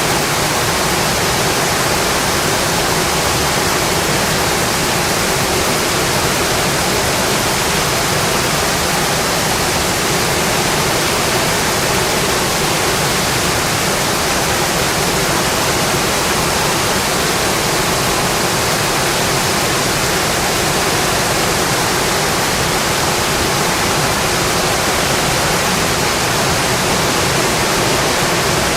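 Rain falling steadily on a windowpane, an even, unbroken hiss of dense rainfall.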